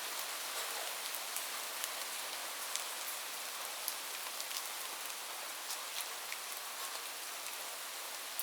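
Steady rain falling, an even hiss with frequent sharp, close drips of individual drops landing on a surface.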